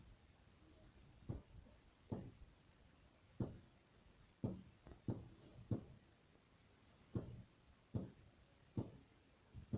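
Distant firework bangs: a faint, irregular series of about ten dull booms, one every half second to a second and a half.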